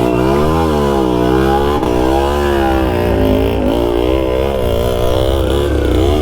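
Yamaha RX two-stroke motorcycle engine running under a working throttle, its revs rising and falling about once a second.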